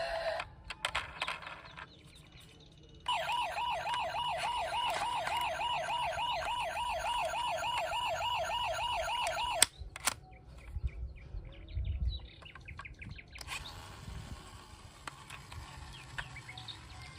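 Electronic toy siren warbling rapidly, about five wobbles a second, for around six seconds before cutting off abruptly, with scattered clicks and handling noises around it.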